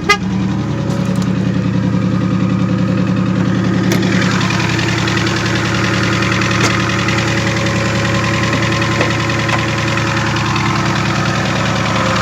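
Supercharged 5.0 Coyote V8 idling steadily with a light tapping, a knock the mechanic suspects may be rod knock though it could be blower noise. A short clatter right at the start and a click about four seconds in.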